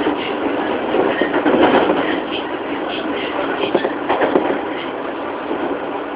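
JR 205 series electric train running, heard aboard motor car MoHa 205-335: a steady rumble of wheels on rail with scattered clicks and knocks, louder between about one and two and a half seconds in.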